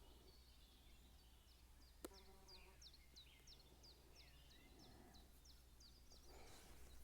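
Faint bird song: a long run of short, high, down-slurred notes, about three a second. A single sharp click comes about two seconds in.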